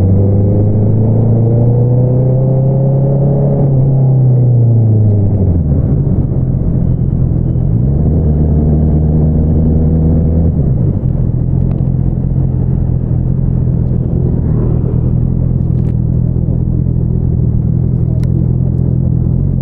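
2022 Honda CBR650R's inline-four engine through an Akrapovič single-outlet exhaust. It pulls with slowly rising revs, drops off quickly about four seconds in, then runs steadily at lower revs to the end.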